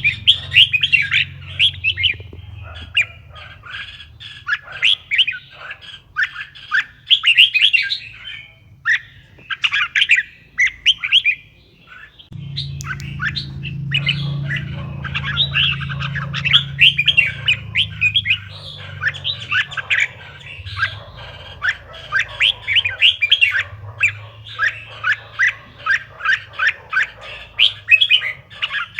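Red-whiskered bulbul song: quick runs of short chirping notes repeated with brief gaps, over a low steady hum that grows louder about twelve seconds in.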